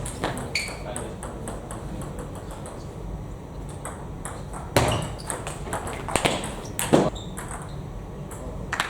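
Table tennis balls being hit with bats and bouncing on the table: many short, sharp clicks at an irregular pace, with louder hits about five and seven seconds in.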